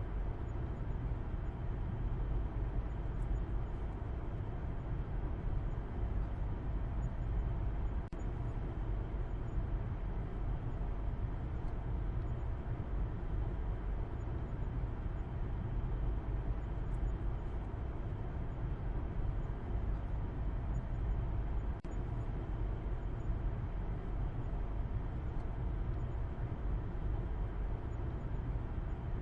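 Steady low rumble of a car driving: engine and tyre-on-road noise in an even, unbroken drone, dipping briefly twice.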